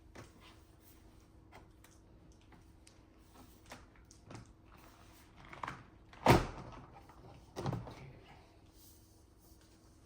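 Hard plastic clicks and knocks from handling the Dyson HP09 air purifier while its filter is being removed, with two louder knocks past the middle.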